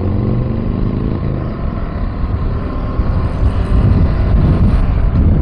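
KTM 390 Adventure motorcycle riding along, heard through a helmet-mounted microphone: its single-cylinder engine note rises slightly in the first second, then wind and road rumble take over and grow a little louder after about three seconds.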